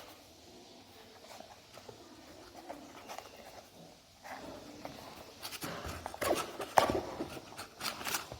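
Packaging of a wireless-earbuds box being handled and opened: faint rustling at first, then from about halfway a run of louder scraping and sharp clicks.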